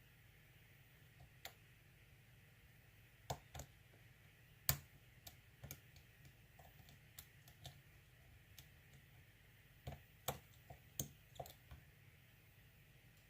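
Lock pick and tension wrench working the pin stack of an ASSA six-pin euro cylinder with security pins: irregular small metallic clicks and taps, the loudest about a third of the way in and a quick cluster near the end.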